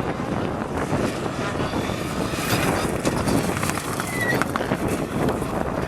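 Rally car going by at speed: a steady, even rush of engine and tyre noise with scattered sharp clicks.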